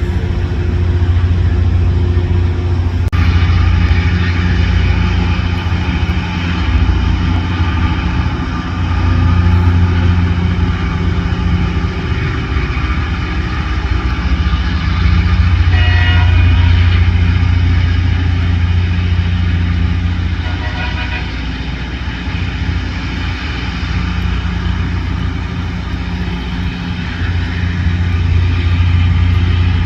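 LORAM rail grinder train working: a steady, loud low hum of its engines under a dense rushing grinding noise, which grows fuller about three seconds in. Two short pitched blips stand out around the middle.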